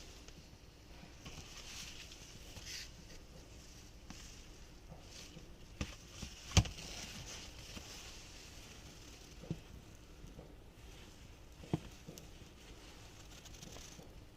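Light rustling from a tool bag being handled, with four sharp knocks; the loudest comes about six and a half seconds in.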